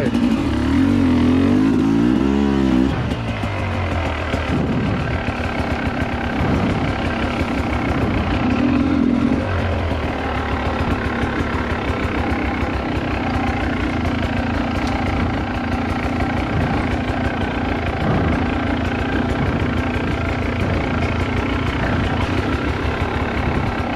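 Dirt bike engine running, its revs rising and falling several times in the first three seconds, then running steadily.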